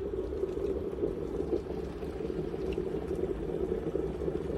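Glass electric kettle at a full boil, the water bubbling steadily with a low, even sound.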